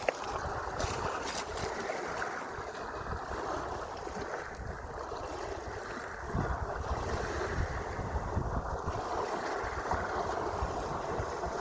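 Sea waves washing steadily, with wind buffeting the microphone in a low, fluttering rumble.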